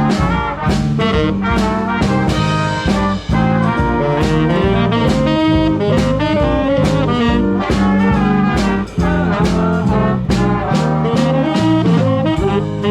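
Swing band playing, horns over a steady drum beat.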